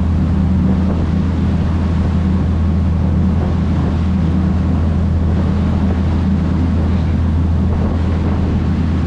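Tour boat's engine running with a steady low drone, mixed with wind noise on the microphone.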